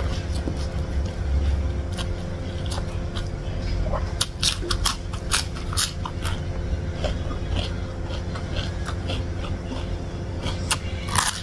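Close-miked eating by hand: chewing and many short wet mouth clicks and smacks, with a bite into a raw white round eggplant near the end. A steady low hum runs underneath.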